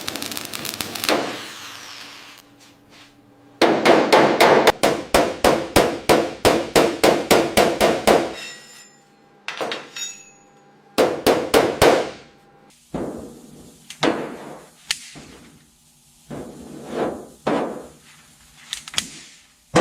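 Hammer blows on metal: a fast run of about four strikes a second lasting several seconds, then a few shorter groups of blows with pauses between them.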